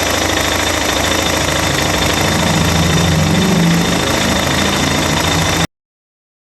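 Suzuki DR650's single-cylinder four-stroke engine idling, its note rising slightly about three seconds in. The sound cuts off abruptly near the end.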